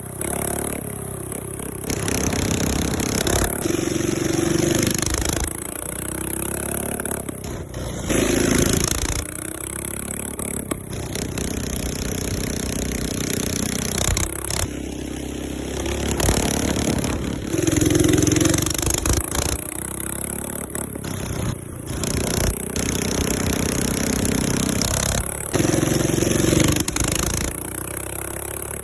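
Single-cylinder minibike engine revved up and let back down over and over, with sharp backfire pops and cracks as the revs fall.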